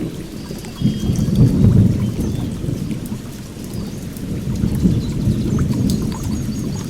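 Water rushing with a low, churning rumble that swells about a second in and again later, with small birds chirping in short high notes over it.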